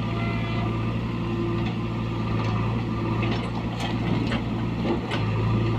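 Heavy diesel engine running steadily, with a few light metallic clicks over it.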